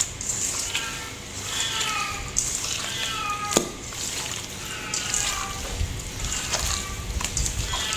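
Short, high calls from an animal, repeated several times a second and each falling slightly in pitch, over a steady crackling hiss with scattered clicks.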